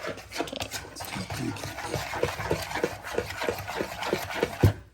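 A kitchen utensil working in a bowl or on a board while pancakes are made, in a rhythm of about four short strokes a second, ending with one louder knock near the end.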